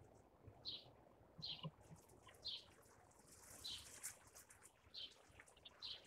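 Faint, short high-pitched bird calls, about one a second.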